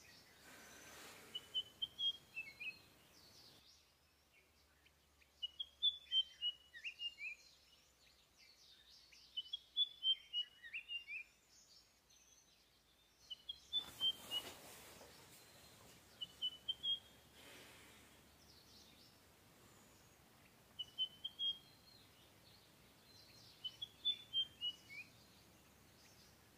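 A small songbird singing short phrases of quick, high chirps that step down in pitch, repeated every few seconds over a faint background hiss.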